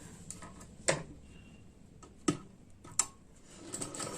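A few sharp clicks and taps, then a sewing machine starts running just before the end.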